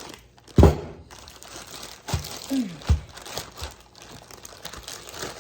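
Frozen chicken breasts being handled in their plastic packaging: plastic crinkling, with a sharp knock about half a second in and a few more hard knocks of the frozen pieces.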